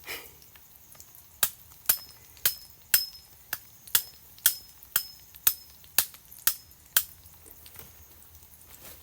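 About a dozen sharp tool blows at a steady two a second, several with a short metallic ring. They stop about seven seconds in.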